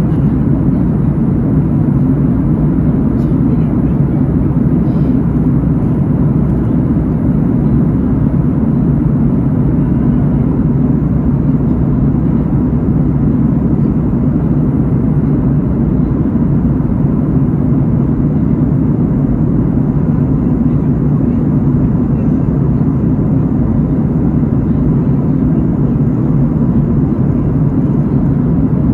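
Steady in-flight aircraft cabin drone of engine and airflow noise, deep and unbroken, with a faint steady whine above it.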